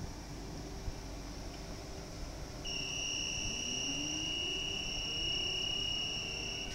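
A steady high-pitched electronic warning tone starts a few seconds in and holds for about four seconds. Underneath it a low whine rises slowly, over a steady low rumble at the station.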